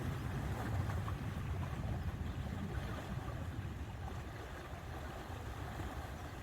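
Wind buffeting the microphone in a steady, fluttering low rumble over a faint wash of lake water.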